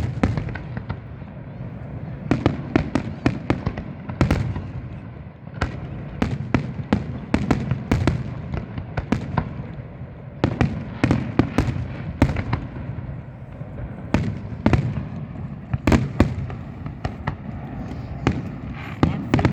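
Fireworks display: a rapid series of bangs and cracks, some single and some in quick clusters, over a continuous low rumble of further bursts.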